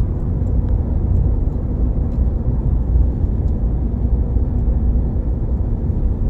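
Steady low rumble of a road vehicle being driven: engine and tyre noise, even throughout, with a few faint ticks above it.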